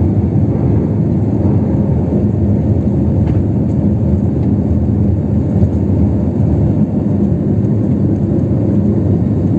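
Passenger jet's engines and airflow heard from inside the cabin: a loud, steady, deep noise with a low hum underneath.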